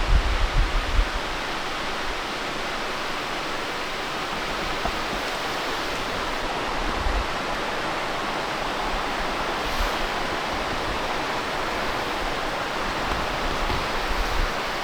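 Steady rush of a waterfall, an even hiss of falling water. Low buffeting on the microphone in the first second.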